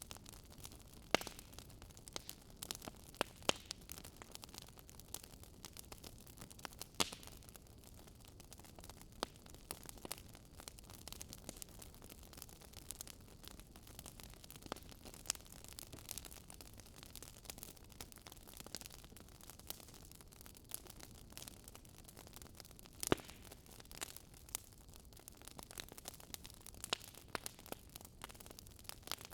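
Wood fire in a fireplace crackling: irregular sharp pops and snaps from the burning logs over a soft steady hiss, with a few louder pops about a second in, at three and a half and seven seconds, and around twenty-three seconds.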